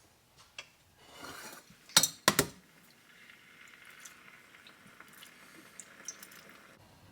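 A metal pot clanks twice, sharply, about two seconds in. Then comes a faint, steady rushing sound as vegetable stock is poured into the pan over the rolled grape leaves.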